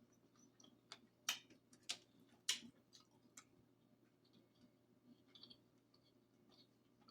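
Close-miked eating sounds: a handful of sharp mouth clicks and smacks while chewing, the loudest three coming between about one and two and a half seconds in.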